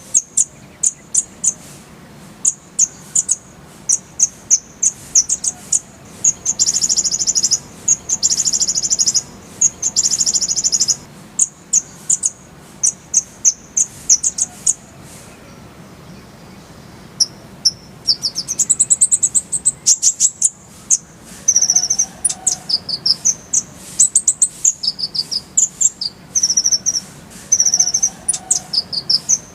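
Kolibri ninja sunbird (van Hasselt's sunbird) singing: a string of sharp, high-pitched chirps broken by fast rolling trills, with a short pause about halfway through before quick, varied notes resume.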